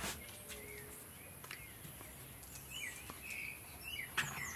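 Quiet outdoor background with a few scattered short bird chirps. There are soft clicks of eggs being handled in a cardboard egg carton, the sharpest right at the start.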